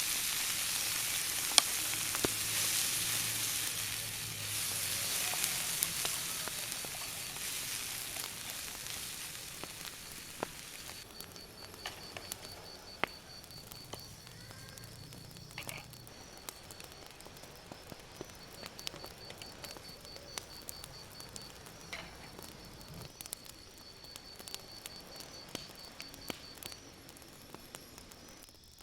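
Food frying in a pan over a campfire, sizzling loudly with scattered sharp crackles; the sizzle dies down about ten seconds in. Then a steady, rapidly pulsing high trill runs on until shortly before the end.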